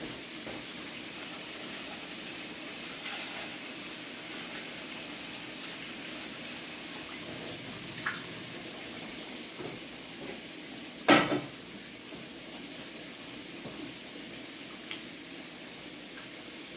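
Pork chops frying in grease in a skillet, a steady sizzle. One loud knock comes about two-thirds of the way through.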